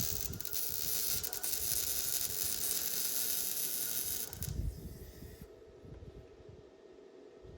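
A steady hiss that cuts off about four and a half seconds in, leaving only faint low rumbling.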